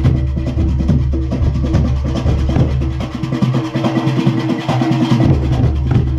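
Junkanoo band playing: goatskin drums beat a fast, continuous rhythm, with a few steady held tones running under the drumming.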